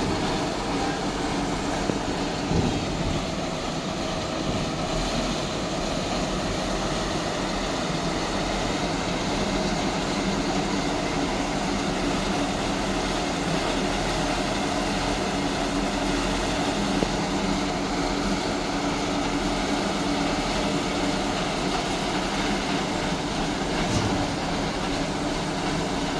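Heavy tow truck engines running steadily under load, winching a truck up out of a river.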